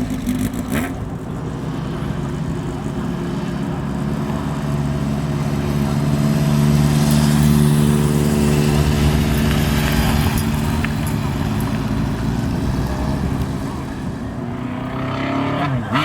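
Motorcycle engines riding past. The exhaust note holds steady, swells to its loudest about halfway through, then fades, and another bike revs up near the end.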